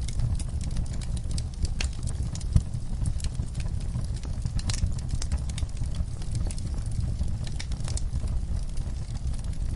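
Wood fire in a fireplace crackling: irregular sharp pops and snaps over a steady low rumble of the flames, with one louder pop a little over two seconds in.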